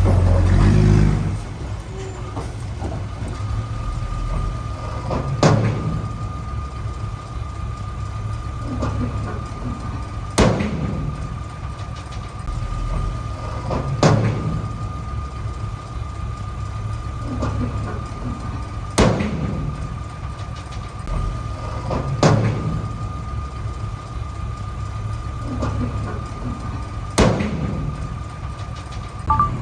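Heavy diesel machinery running steadily, louder for the first second. A sharp knock comes about every four seconds, six in all. A steady high whine starts about three seconds in.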